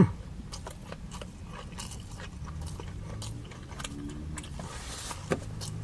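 Close-miked chewing of a chicken katsu sushi burrito: many small wet mouth clicks and smacks, with a low steady hum underneath.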